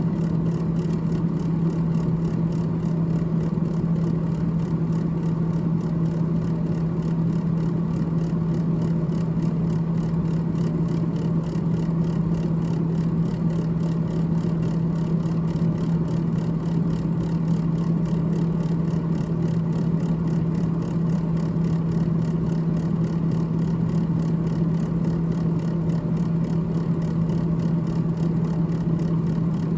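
The freezer fan in a GE GTH18XCTZRBB refrigerator runs with a steady hum and whir that does not change.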